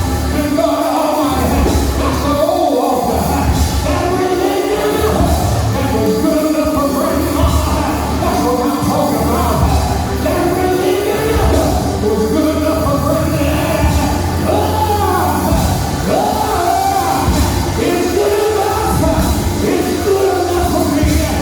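Church music: voices singing a melody over instrumental backing with a strong, steady bass line.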